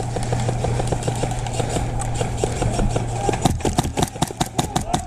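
Airsoft gunfire: a quick patter of small clicks over a steady low hum, then, about three and a half seconds in, a fast regular run of sharper, louder shots at about six a second.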